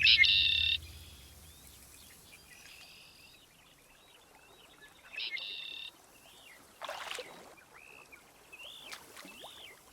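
Birds calling: two loud calls, each under a second, about five seconds apart, with fainter short chirps between and after.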